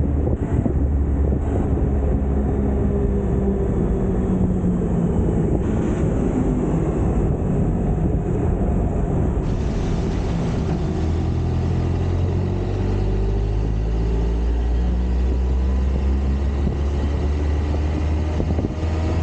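2010 Kawasaki Concours 14's inline-four engine running while the bike is ridden, a steady low hum under a rush of wind and road noise. The engine note rises slowly through the second half.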